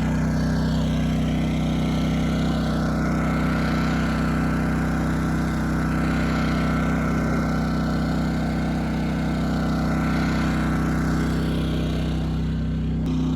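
Small engine running steadily at a constant speed, a low, even hum.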